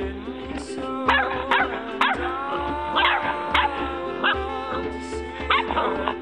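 Puppies yipping and whining in a string of short, high cries that drop in pitch, about a dozen over a few seconds, over background music.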